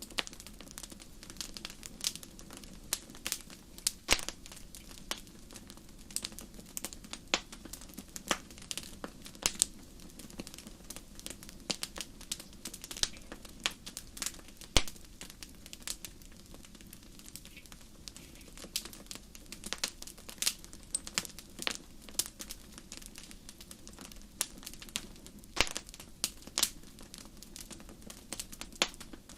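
Wood fire burning in a fireplace: frequent irregular crackles and sharp pops over a low steady rumble of the flames.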